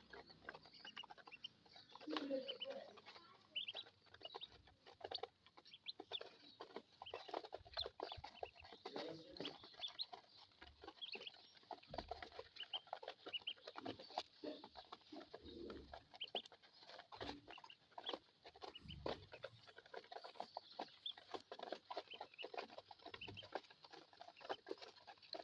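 Ducklings peeping, many short high calls one after another, mixed with frequent short clicks and a few lower calls.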